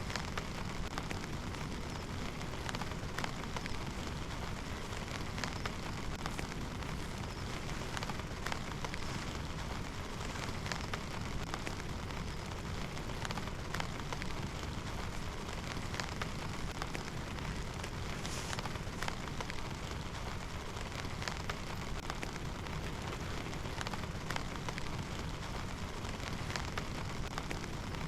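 Heavy rain falling steadily, with many separate drops striking a near surface and a low rumble underneath.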